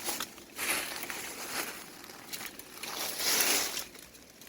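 Dry brush and leaves rustling and crackling in several swells as someone pushes through them on foot.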